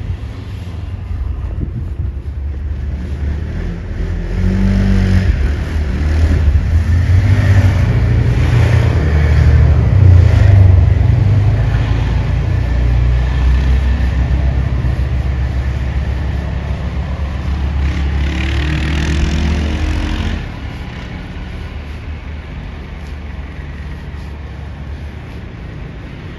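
A motor vehicle engine running close by on a snowy street, with a heavy low rumble like wind buffeting the microphone. The rumble swells from a few seconds in and drops off sharply about twenty seconds in.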